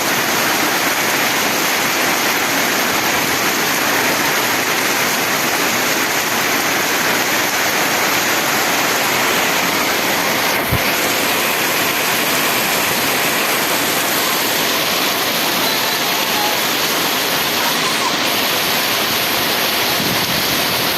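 Heavy rain pouring down: a loud, steady rush of noise. A brief low thump sounds about ten seconds in.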